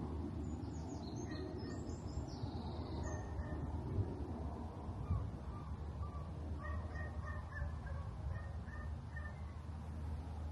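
Birds calling: a few short high chirps in the first three seconds, then a run of short repeated calls, about three a second, from about six to nine and a half seconds in, over a steady low rumble.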